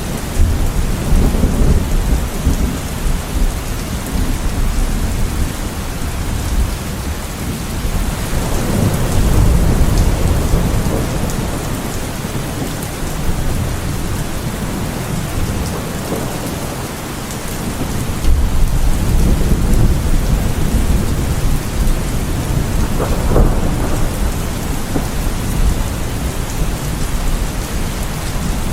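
Heavy rain falling steadily through a thunderstorm, with rolls of thunder swelling and fading several times.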